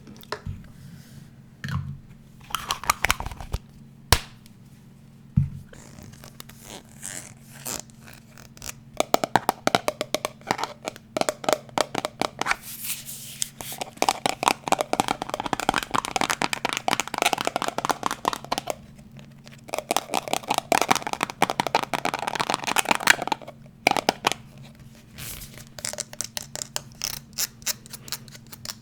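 Fast tapping and scratching on unidentified objects: a few separate taps, then dense rapid tapping and scratching in two long runs with a short break between, and lighter taps near the end.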